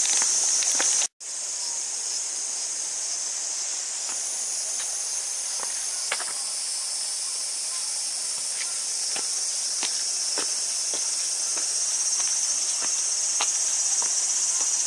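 A steady, high-pitched chorus of cicadas in summer woodland, with scattered light ticks underneath. The sound cuts out for a moment about a second in.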